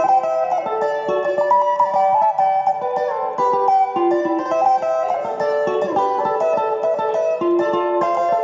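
Guitar playing a fast, bright sebene-style lead line of quickly picked single notes, repeating melodic figures without a break.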